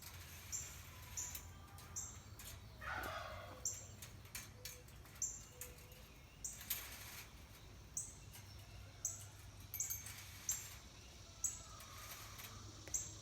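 A short high chirp repeating about once a second, with scattered sharp clicks in between.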